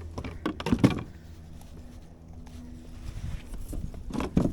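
A few knocks and bumps against a kayak, the loudest about a second in, with another cluster near the end.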